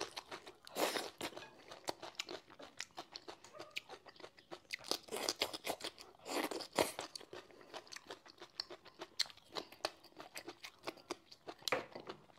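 A person chewing crisp food, a dense run of crunches with louder bites now and then.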